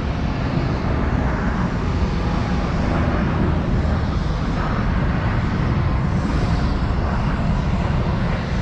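Steady, loud rumbling noise of a vehicle in motion, even and unbroken with no distinct events.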